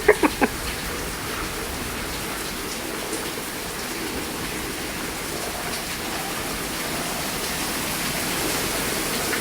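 Heavy rain pouring down, a loud, steady rushing hiss that grows a little louder near the end. It is thought to be rain falling on something, maybe newly installed gutters.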